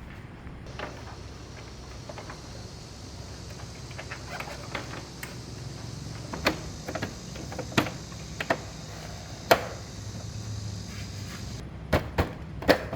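Scattered sharp clicks and knocks, a few at a time, over a steady high hiss that stops a little before the end.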